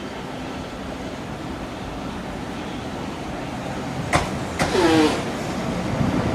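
Train running, a steady rumble that slowly builds, then sharp clicks about four seconds in and a short falling squeal just after, with more clicks near the end.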